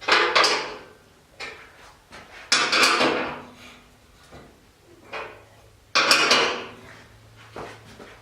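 Metal clanking on a steel motorcycle lift table as a wheel chock is bolted on: three loud sharp knocks, each ringing on for about a second, with a few fainter knocks between them.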